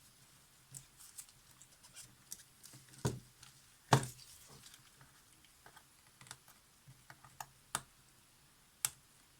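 Scattered light clicks, taps and scrapes of a small hand tool picking old silicone glue off the plastic parts of a Polaroid SX-70 camera. There is a louder knock about three seconds in and the loudest about four seconds in.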